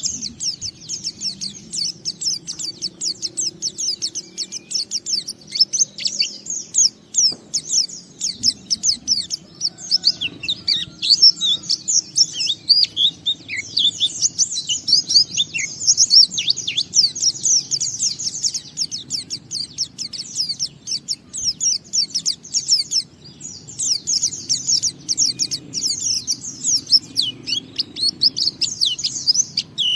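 White-eye (pleci) singing a long, unbroken run of rapid high twittering and trills, the continuous 'ngalas' style of song, pausing only briefly near the end.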